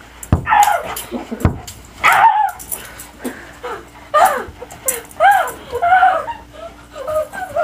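Golden doodle yipping and whining in rough play, a string of short high-pitched calls, with a couple of sharp thumps near the start.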